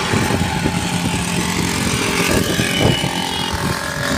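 Two-wheeler engines running on the move: the camera rider's motorcycle and the modified Honda Activa scooter cart riding along the road, with a dense, uneven rumble of wind and road noise.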